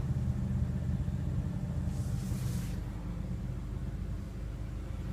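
BMW M6 Gran Coupe's twin-turbo V8 idling, a steady low rumble heard from inside the cabin, with a brief soft hiss about two seconds in.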